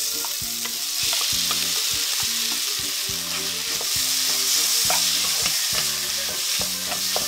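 Crumbled tofu sizzling steadily in hot oil in a nonstick wok, just added to sautéed shallots, garlic and chilies and stirred with a plastic spatula, with light taps and scrapes.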